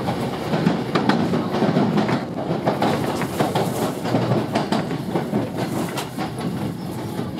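Running noise heard from inside a Sanyo 5000 series electric train car, a steady rumble broken by irregular clacks of the wheels over rail joints.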